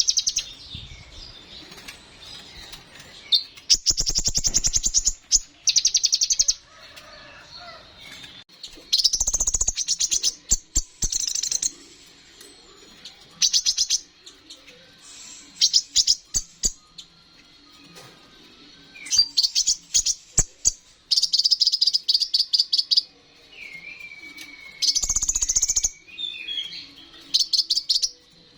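Sunbird of the type Indonesian keepers call kolibri ninja (konin), singing in full voice: bursts of rapid, very high trilling a second or two long, repeated with short pauses, with a lower whistled phrase near the end.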